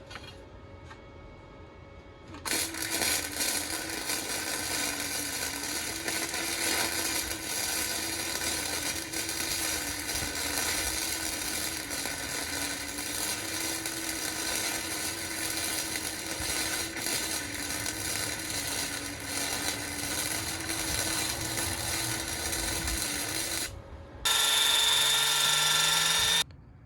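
A handheld power tool running steadily under load for about twenty seconds, starting a couple of seconds in, with a slightly wavering hum under a dense whirring noise. Near the end it stops and a brief, different steady whine with a rising low tone follows.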